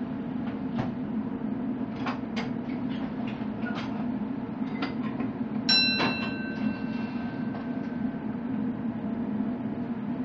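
Electric commuter train running along the track with a steady low hum and scattered clicks and rattles. About six seconds in comes a sharp metallic clank that rings on for a couple of seconds.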